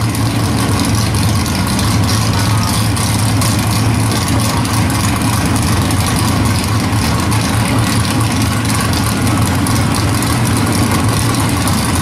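Drag car's engine idling steadily with a low, even rumble.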